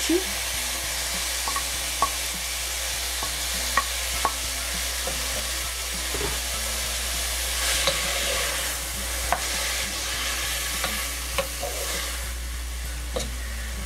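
Diced tomatoes sizzling in hot oil with softened onions in a pot, stirred with a wooden spoon that knocks against the pot now and then.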